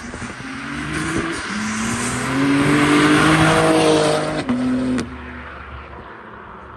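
Camaro SS V8 revving hard as it accelerates away, its engine note climbing in pitch over a loud rushing roar. The sound drops off sharply about five seconds in.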